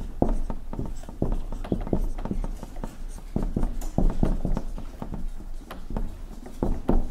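Dry-erase marker writing on a whiteboard: a quick, irregular run of short taps and strokes as letters are drawn.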